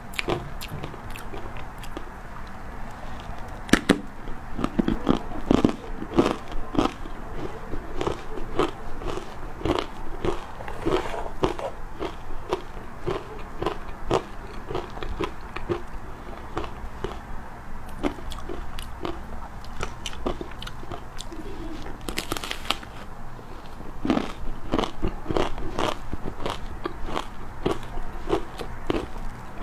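Close-up crunching and chewing of hard ice coated in matcha powder, a continuous run of irregular sharp cracks as the ice is bitten and ground between the teeth, growing louder near the end.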